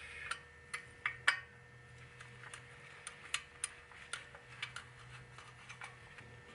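Light, irregular metallic clicks and clinks of parts and tools being handled while a stereo receiver is taken apart for scrap, over a faint steady low hum.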